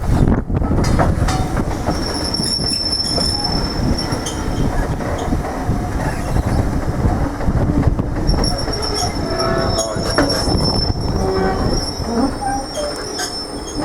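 Train rolling past with a heavy steady rumble and the clicks of wheels over rail joints. A high-pitched wheel squeal comes in about two seconds in, fades, and returns from about eight seconds in.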